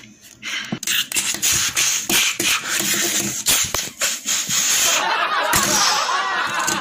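Cartoon sound effects of a car engine sputtering and breaking down: a rapid run of knocks and bangs, then wobbling, squealing glides from about five seconds in, as the engine blows.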